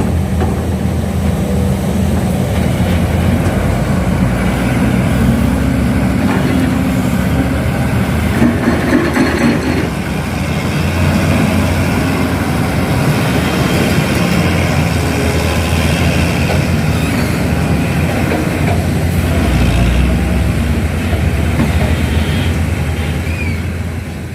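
Heavy diesel engine running steadily with a strong low hum, fading out near the end.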